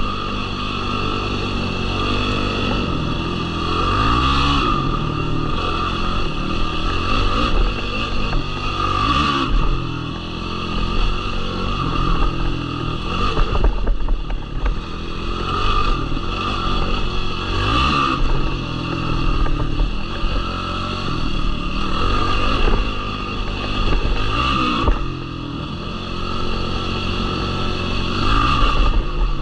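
Yamaha YFZ450R quad's single-cylinder four-stroke engine revving up and down under throttle on a dirt trail, with a few brief knocks along the way.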